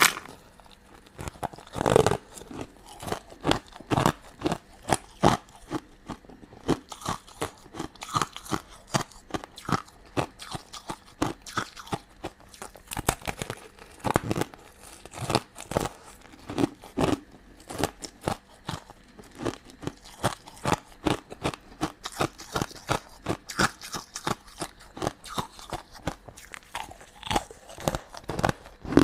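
Close-miked chewing and crunching of sugar-coated candy and jelly sweets: a continual run of small irregular crunches and wet chewing clicks, with a louder bite about two seconds in and another near the middle.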